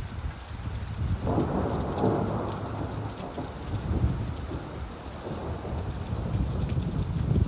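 Steady rain with a long, low rumble of thunder that swells about a second in and rolls on for several seconds.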